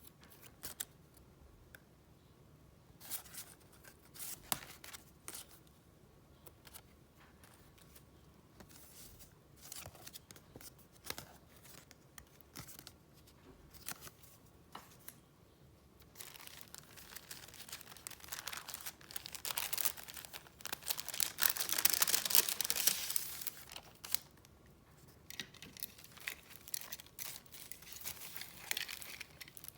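Paper and gift wrapping handled by hand: scattered light rustles and taps, then a longer, louder stretch of rustling and crinkling a little past halfway through, and softer rustles near the end.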